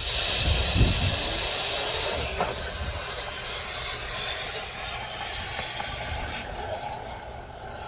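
Air rushing hard through a dryer vent duct during cleaning, a loud hiss that starts suddenly, is strongest for about two seconds, then settles to a lower steady hiss.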